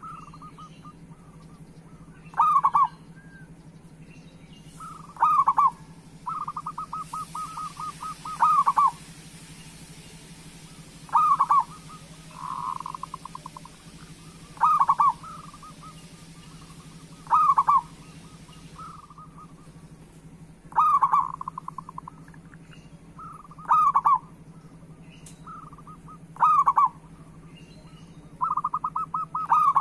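Zebra dove (perkutut) cooing its song, a loud short phrase repeated about every three seconds, some phrases led by a rapid run of short staccato notes. A steady low hum runs underneath.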